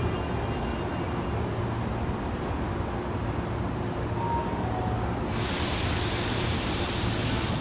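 Inside a Saitama Railway 2000 series train standing at a station: steady hum of its onboard equipment. About five seconds in, a loud even hiss starts suddenly and cuts off abruptly near the end.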